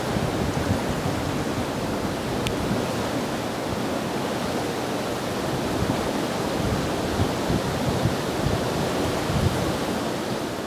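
Steady rushing of the floodswollen Mohawk River, with uneven low buffeting of wind on the microphone.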